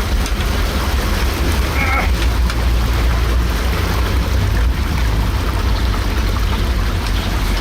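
Heavy M923 5-ton 6x6 military truck's diesel engine running with a steady low rumble, under a constant rush of water and spray noise.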